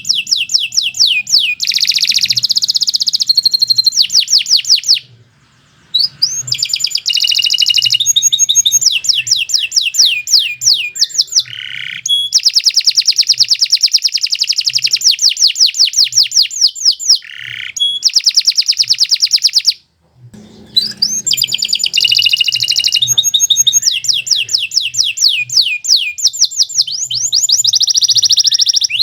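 Domestic canary singing a long, continuous song of rapid trills and repeated sweeping notes, high-pitched, broken by two short pauses, one about five seconds in and one about twenty seconds in.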